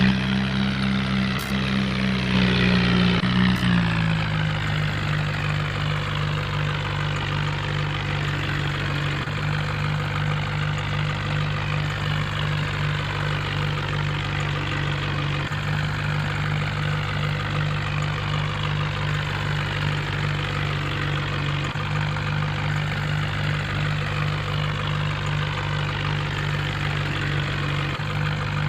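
RC toy tractor running with a steady, engine-like low hum that drops slightly in pitch about four seconds in, with a fainter whine sliding up and down above it.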